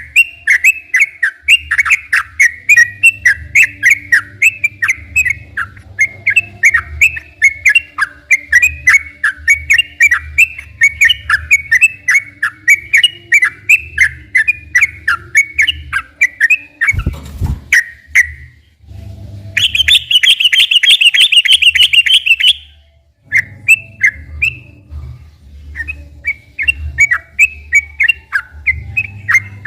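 Yellow-vented bulbul (trucukan) singing a long, fast run of chirping notes. About 17 seconds in there is a low thump, then a few seconds of a harsher, dense buzzing rattle, after which the chirping resumes.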